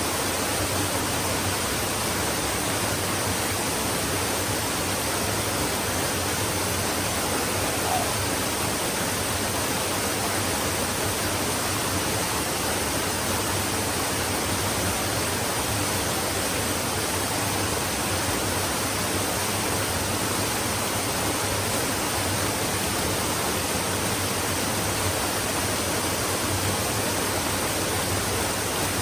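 Stream flowing: a steady, even rush of running water with no change in level.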